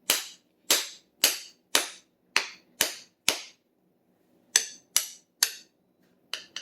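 A hammerhead being knocked down onto a wooden handle with repeated sharp blows, about two a second: seven strikes, a short pause, then four more.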